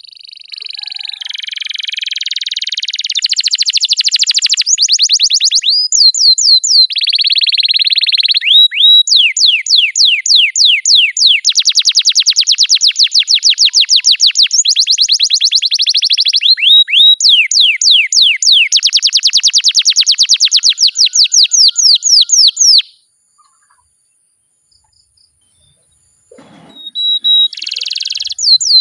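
Domestic canary singing a long song of fast rolling trills: runs of rapidly repeated high notes and quick downward sweeps, changing from one trill to the next. The song breaks off suddenly about two-thirds of the way through, then starts again a few seconds later near the end.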